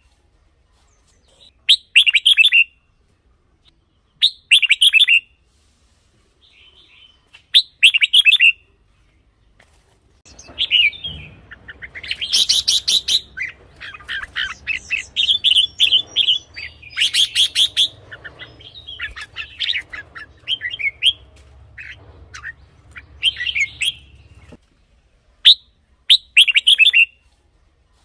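Red-whiskered bulbul singing short, bright warbling phrases about a second long, every two to three seconds. From about ten seconds in, a denser stretch of song runs for some fourteen seconds over a faint low hum, then the spaced phrases return.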